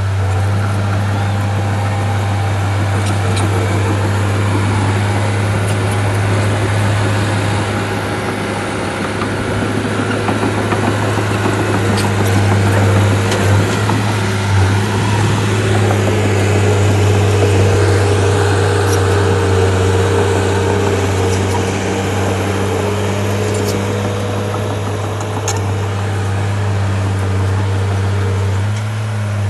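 Heavy machine's diesel engine running steadily with a deep hum, getting a little louder midway, with scattered light clicks.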